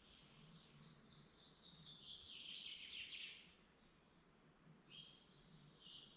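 A songbird sings one faint phrase of about three seconds: a run of quick repeated high notes that speeds up into a dense trill. A few short, high chirps follow near the end.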